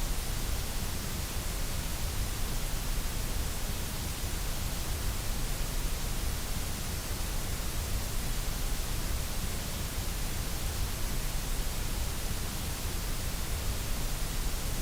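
Steady, unchanging synthetic noise, an even hiss with a full low end, running without any change or break.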